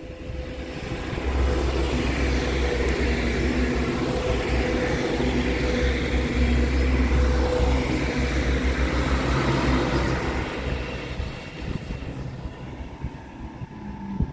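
BRB regional multiple unit passing close by. A steady low hum and rolling noise build up, stay loud for several seconds, then fade as it moves away.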